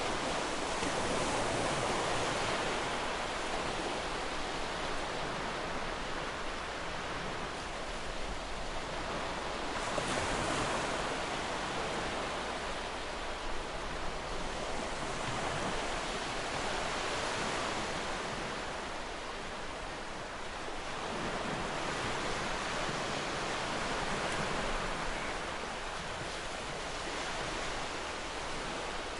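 Ocean waves washing on a shore: a continuous rushing surf that swells and eases every few seconds.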